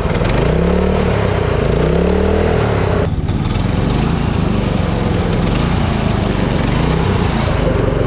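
Mini bike's small engine running, revved up and back down twice in the first few seconds and once more near the end.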